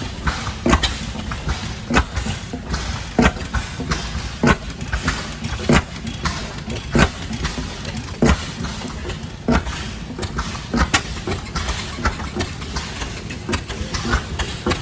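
Antique stationary gas engines running, with irregular sharp exhaust pops over a steady low rumble.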